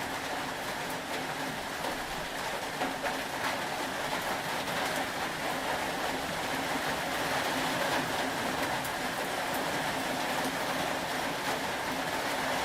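Steady rain, an even hiss with a faint low hum underneath.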